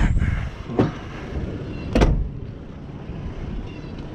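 Two short knocks, about a second in and again at two seconds, over a steady low rumble.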